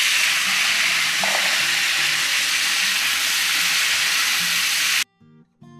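Chopped tomatoes sizzling loudly in hot oil in a kadai as they are dropped in and stirred with a spatula. The sizzle cuts off abruptly about five seconds in.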